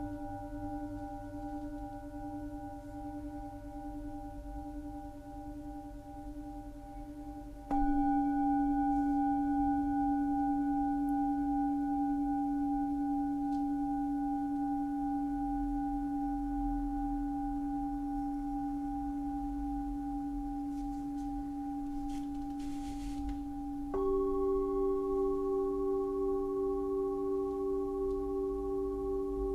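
Singing bowls ringing with long, wavering tones; a bowl is struck about 8 seconds in and another, higher one about 24 seconds in, each ringing on over the fading earlier tones.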